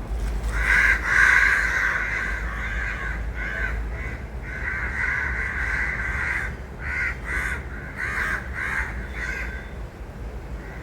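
Crows cawing repeatedly: a near-continuous run of caws, then several short separate caws over the last few seconds.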